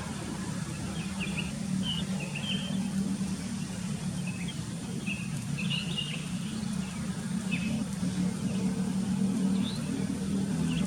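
Sooty-headed bulbuls giving short, scattered chirping calls over a steady low hum.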